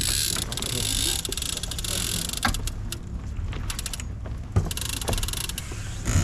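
Sailboat deck winch being worked, its ratchet making a fast, rapid clicking in two spells: one in the first two seconds and a shorter one about five seconds in. A few knocks and steady low wind and water noise run underneath.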